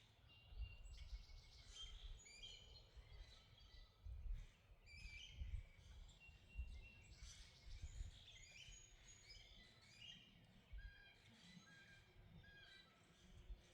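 Several birds chirping and calling, many short high notes overlapping one another, with intermittent low rumbles underneath.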